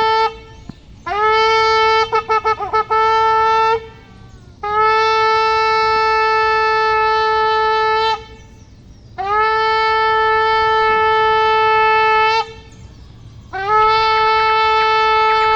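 Shofar sounded in a series of loud blasts, each held on one steady, strong note for about three to four seconds, with short pauses between them. The first blast begins with quick stuttering, wavering notes before it settles into the long tone.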